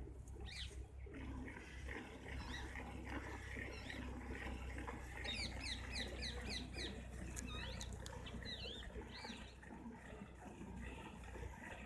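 Small birds chirping, with a quick run of about a dozen short rising chirps near the middle and single calls before and after, over the faint hiss of milk being squirted by hand into a steel pail.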